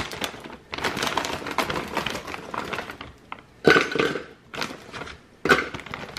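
Smoothie ingredients being handled and tipped into a blender jar: rustling for the first few seconds, then two sharp knocks against the jar, about two seconds apart.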